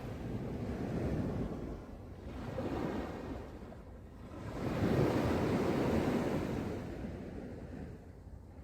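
Sea waves breaking and washing up the beach in slow swells, the largest surge about five seconds in, with wind rumbling on the microphone.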